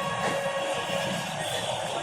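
Express passenger train running along the track, heard from inside the coach: a steady rumble with thin, high ringing tones held over it.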